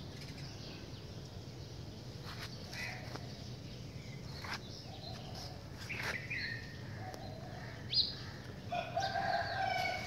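Birds calling: a few short calls, then a longer call near the end, over a steady low background hum.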